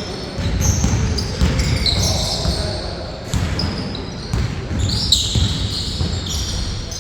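Basketball bouncing on a court floor during play, with repeated thuds and many short, high squeaks of sneakers on the floor.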